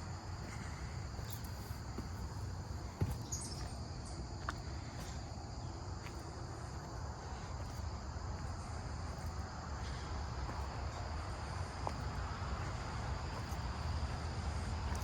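Steady chorus of insects in woodland, an even high-pitched drone, over a low rumble of phone handling and walking, with a sharp tick about three seconds in.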